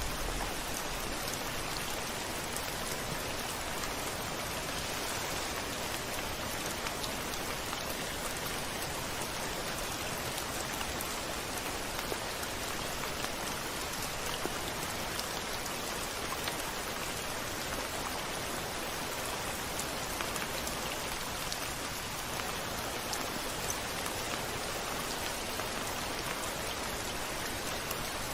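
Steady rain falling on a window, an even hiss with scattered individual drops ticking through it.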